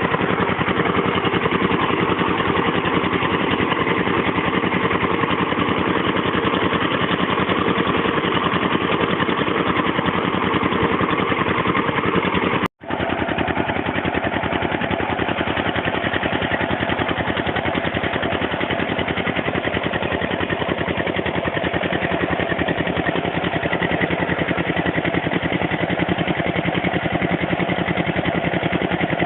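Small 8 HP diesel water-pump engine running steadily with an even firing rhythm. The sound drops out for a split second about halfway through, then carries on unchanged.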